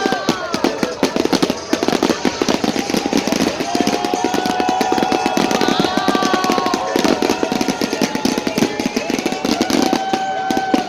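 Fireworks crackling densely and continuously, with long held tones sounding over the crackle.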